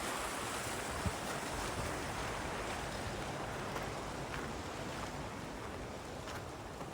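A steady rushing noise that slowly fades, with a few faint clicks.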